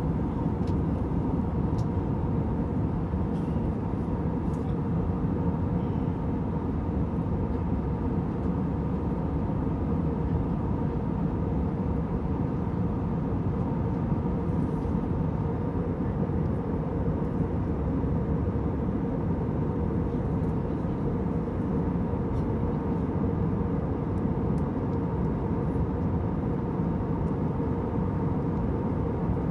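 Steady cabin noise of an airliner in flight: an even, unchanging hum and rush of engines and airflow.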